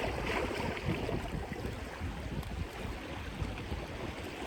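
Wind buffeting the phone's microphone over the wash of sea water on the rocks, an uneven rushing noise without any clear single event.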